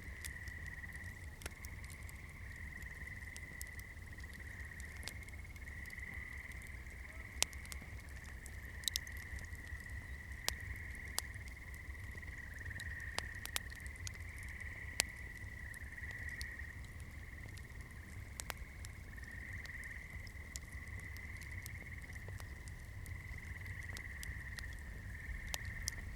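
Wood campfire crackling, with sharp pops scattered throughout over a low steady rumble. A continuous high-pitched trilling runs behind it.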